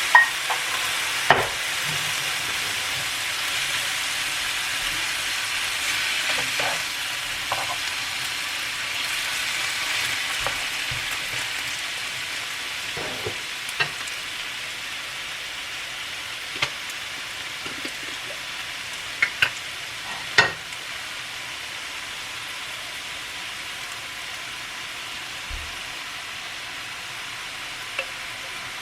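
Food sizzling in a frying pan while it is stirred. A steady hiss fades gradually, broken by a dozen or so sharp clicks, the loudest pair about twenty seconds in.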